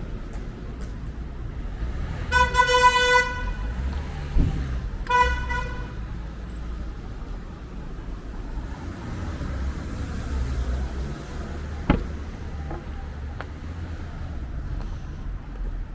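A vehicle horn sounds twice, a steady toot of about a second and then a shorter one, over the low rumble of road traffic. A single sharp bang comes near the end.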